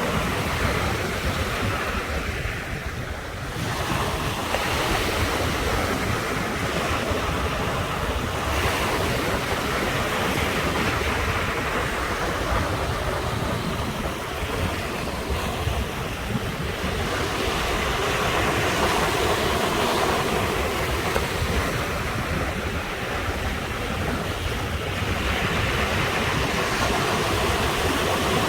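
Ocean waves breaking and washing on the shore in slow swells, one wave after another, with low wind rumble on the microphone.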